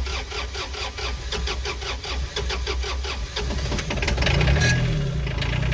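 Komatsu mini excavator's diesel engine, started after preheating the glow plugs, cranking with evenly spaced pulses, then catching about three to four seconds in and running on steadily.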